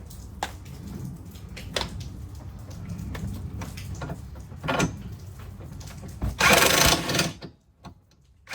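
A handheld power tool runs in one loud burst of about a second near the end. Before it there is a low steady rumble with scattered light clicks and knocks.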